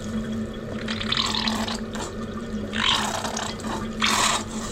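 Warm water splashing as a dirty foam motorbike air filter is washed by hand, in three short spells about one, three and four seconds in, over a steady hum.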